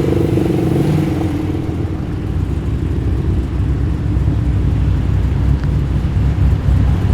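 Car engine running at low revs as a car rolls slowly past, a deep, steady engine note with a slight change in pitch in the first second.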